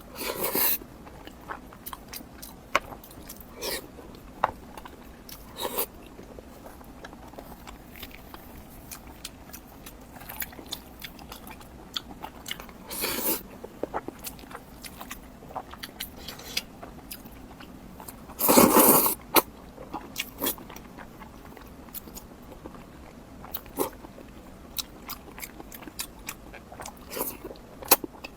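A person eating close to the microphone: crunchy bites and chewing, with scattered small clicks and a few louder crunches, the loudest about a second long two-thirds of the way through.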